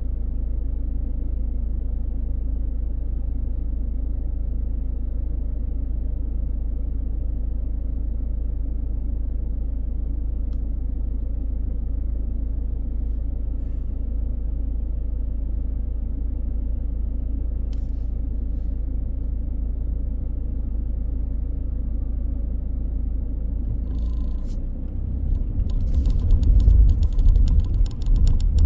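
Car driving, a steady low rumble of engine and road noise. About three-quarters of the way through, the rumble grows louder and rougher, with rapid rattling.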